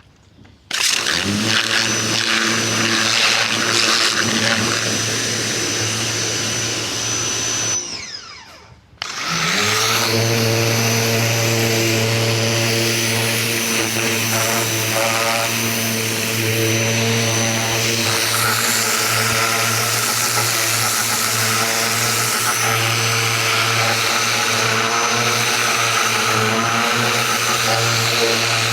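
Ryobi 2000 PSI electric pressure washer running, a steady motor-and-pump hum under the hiss of the water jet. About eight seconds in it cuts out and winds down, then starts up again a second later and runs steadily.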